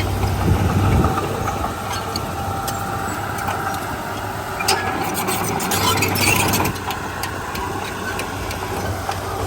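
Diesel engine of a Komatsu D31P bulldozer running steadily, with a burst of metallic clatter from about five to seven seconds in.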